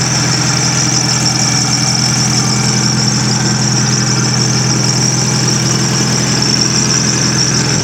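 Yanmar engine on a walk-behind concrete saw, running steadily at an even speed, with a steady high hiss above the low engine note.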